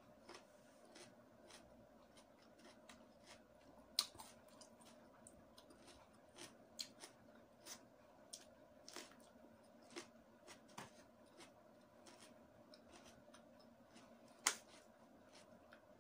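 Crunching and chewing of raw cucumber: a string of crisp clicks, with two much louder crunches about four seconds in and near the end, over a faint steady hum.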